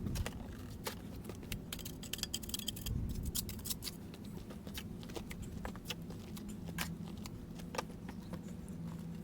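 Stone-building work: many quick, scattered clicks and taps over a low steady hum.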